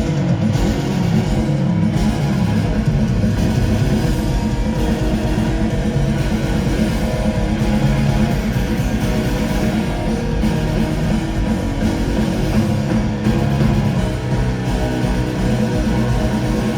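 Loud live rock music: an instrumental band passage led by electric guitar, with no singing.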